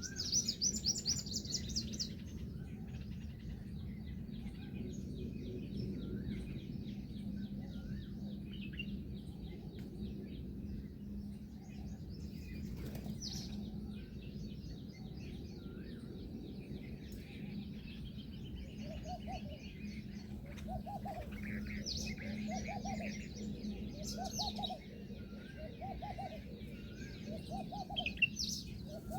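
Several birds calling. A burst of fast, high chattering comes at the start, with scattered high chirps throughout. From about two-thirds in, a series of short, lower call notes repeats roughly once a second.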